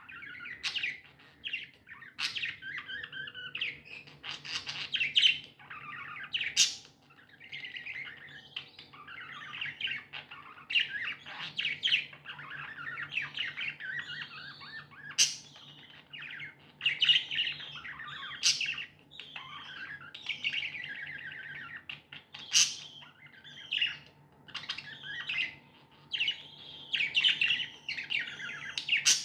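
Budgies chirping and warbling in continuous chatter, with sharp, loud chirps standing out every few seconds, over a faint steady low hum.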